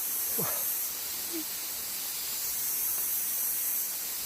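Steady high-pitched hiss of outdoor background noise, with a brief faint falling sound about half a second in.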